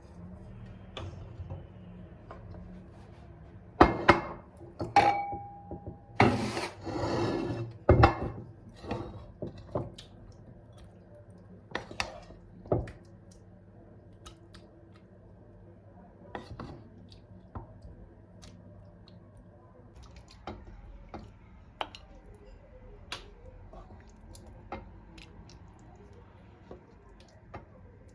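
Household handling sounds: scattered knocks, clinks and rubbing of dishes, utensils and other objects being picked up and set down. A brief steady beep-like tone comes about five seconds in, followed by a couple of seconds of rushing noise. After that come sparser light taps.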